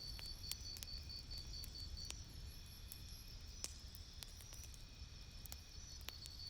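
Campfire crackling, with irregular sharp pops and snaps over a low rumble. A high, rapid pulsing chirp runs in the background for the first two seconds or so, stops, and comes back near the end.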